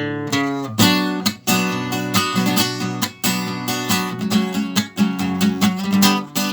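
Acoustic guitar (violão) strumming chords in an instrumental passage with no singing, as the song closes.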